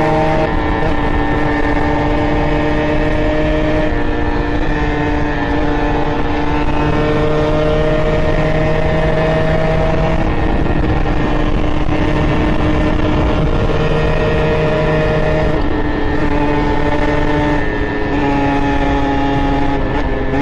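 Two-stroke Beta RR 50 engine, bored to 70cc with an Airsal kit and breathing through a handmade SCR Corse exhaust, running loud under way, its pitch stepping up and down every few seconds with the throttle.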